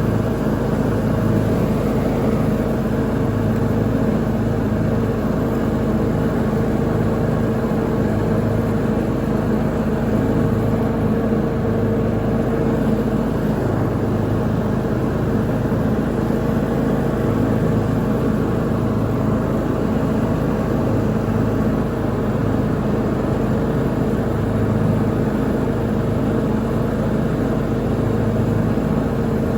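Lawn mower engine running steadily at constant speed while mowing, a continuous even drone.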